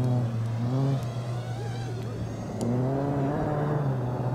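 Rally car engine running hard, easing off about a second in and pulling again from near three seconds.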